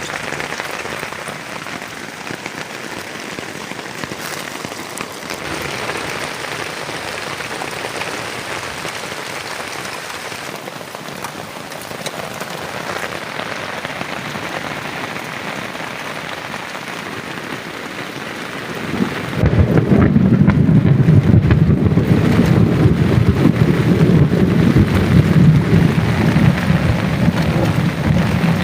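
Heavy rain falling steadily. About two-thirds of the way through, a loud low rumble of thunder comes in suddenly and keeps rolling over the rain.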